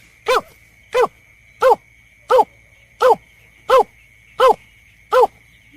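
Recorded bird lure call of the berkik (belkek): a short, arched note repeated about every 0.7 s in an even loop, over a steady high thin tone.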